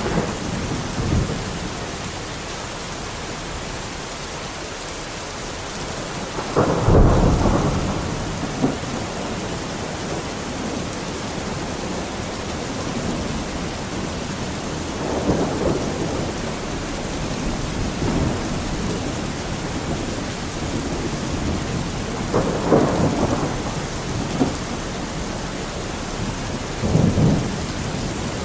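Steady rain falling, with several rumbles of thunder rolling in over it, the loudest about seven seconds in.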